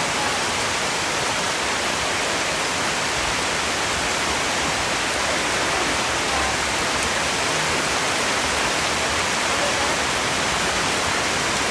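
Heavy rain falling steadily, an even hiss with no breaks or changes in level.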